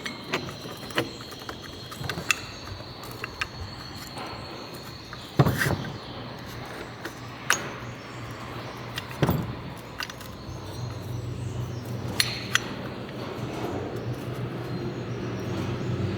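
Scattered metallic clinks and knocks, as of tools and engine parts being handled, over a steady low hum that grows louder near the end.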